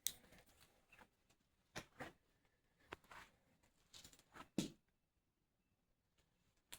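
Near silence in a small room, broken by a few faint, short clicks and knocks of handling, the loudest about four and a half seconds in.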